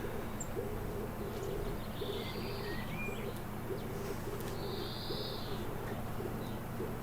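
Greenfinch giving long, buzzy wheezing calls, three in all and each about a second long, with a wood pigeon cooing low and repeatedly underneath.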